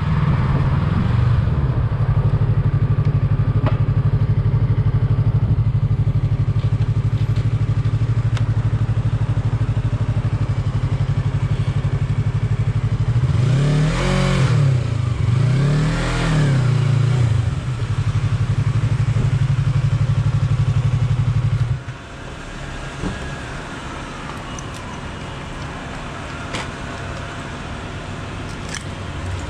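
Yamaha YZF-R3 motorcycle's parallel-twin engine running at low speed, with two short revs about halfway through. It shuts off abruptly about three-quarters of the way in, leaving quieter background traffic.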